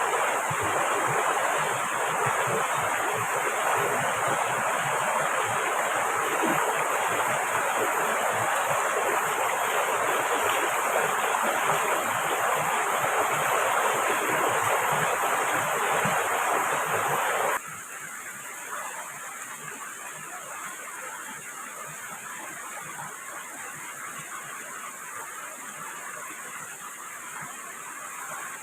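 Steady rushing water noise that drops suddenly to a quieter rush about two-thirds of the way in.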